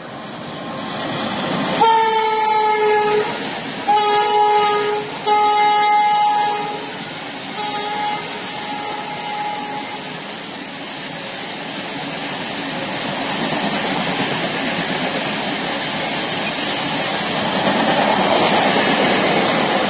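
Indian Railways WAP-7 electric locomotive hauling an express sounds its horn in four blasts over the first eight seconds, the last one short. Then the coaches roll past with a steady rumble on the rails that grows louder toward the end.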